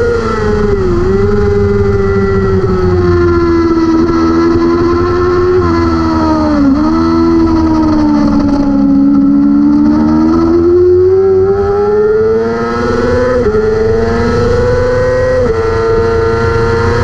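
600cc superbike engine at racing revs heard on board, with a steady rush of wind. The engine note drops with quick gear-change dips about a second in and again around six to seven seconds, sags lowest mid-way, then climbs back up with gear changes near the end.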